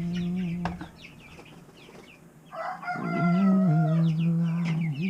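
Chickens calling: a rooster crows in two long calls, one ending just after the start and another from about halfway through, over steady high peeping from chicks.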